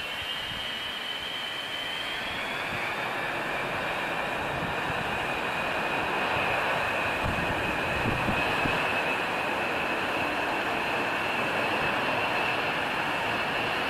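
Pratt & Whitney JT3D turbofan engines of a four-engined jet airliner running, with a high whine over a steady rush. The whine rises in pitch about two seconds in, and the sound grows slowly louder.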